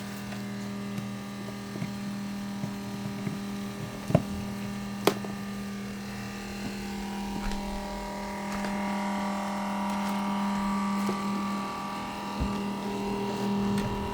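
Small electric water pump running with a steady hum, with two sharp clicks about four and five seconds in; a higher steady whine joins about halfway through.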